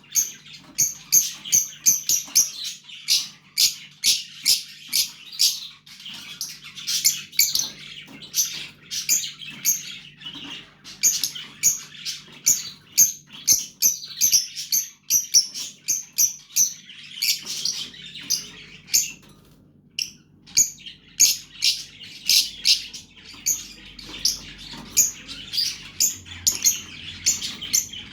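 Fischer's lovebird chicks chirping: a dense run of rapid, short, high-pitched calls that eases off briefly about two-thirds of the way through. A faint steady low hum sits beneath.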